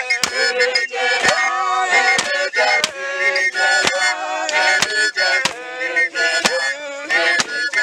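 A traditional dance group singing a chant-like song together, with sharp percussive strikes landing about once a second under the voices.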